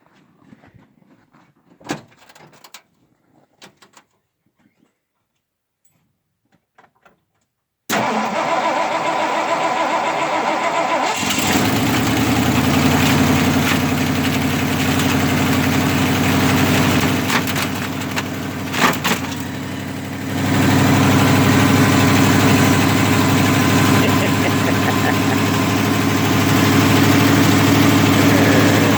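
Truck engine cranked by the starter for about three seconds after a few faint clicks, then catching and running steadily, a little louder from about twenty seconds in. It is the first start after the engine was put back together following a thermostat replacement.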